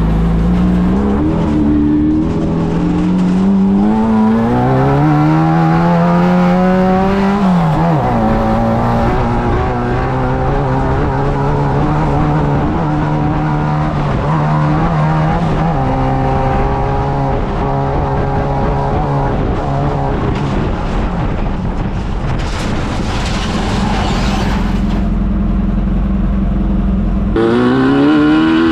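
Class 9 off-road buggy's air-cooled VW engine under way: it revs up, drops sharply as it shifts about eight seconds in, holds steady revs, then climbs again near the end.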